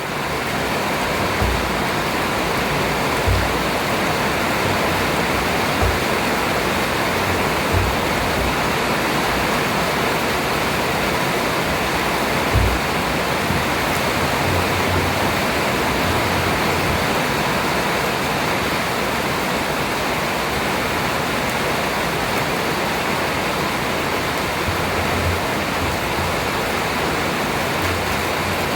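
Heavy rain falling in a steady, loud hiss, with a few brief low thumps.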